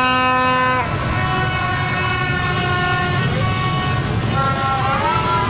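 Horns blaring in long held blasts, one after another and overlapping at different pitches, the first cutting off about a second in. Underneath runs the steady low rumble of a dense street convoy of vehicles and crowd.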